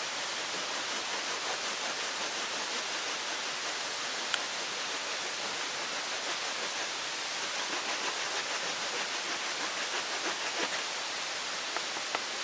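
Steady rushing noise of water, with a few faint ticks scattered through it.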